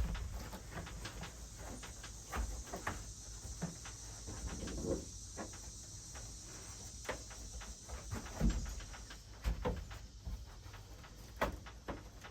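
Scattered light knocks, taps and rustling from handling and fitting pieces of a Bedrug bed liner in a truck bed, a few of them louder thumps, over a faint steady high hiss that stops about three quarters of the way through.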